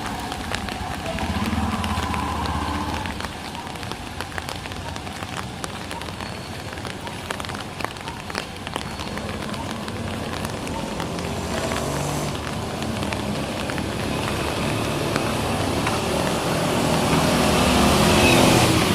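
Rain falling on a city street with many small drop ticks, while motor vehicles pass; a vehicle engine grows louder toward the end.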